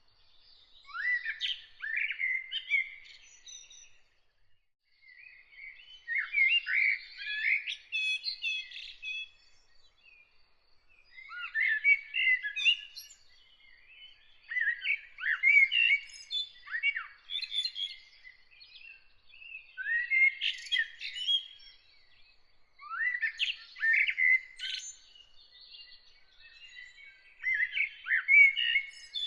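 A songbird singing: about seven short, varied, warbling phrases, each a couple of seconds long and separated by brief pauses. A faint, steady, high-pitched note runs underneath from about ten seconds in.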